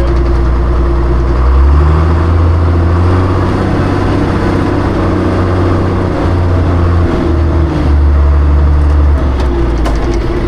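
John Deere tractor engine running, its note rising about one and a half seconds in, dipping briefly a few times and settling lower near the end.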